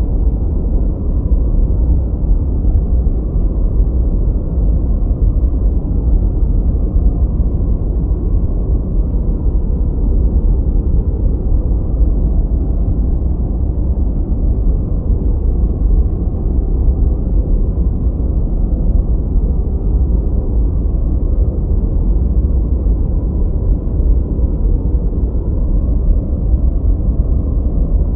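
Steady, unchanging white noise, heavy in the low end with little above the middle range, so it sounds like a deep, muffled hiss.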